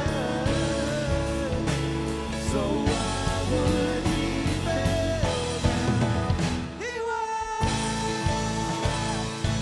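Live worship band playing a passage without words, with a wavering melodic lead line over a steady beat. The music thins out briefly about seven seconds in, then comes back in with a held note.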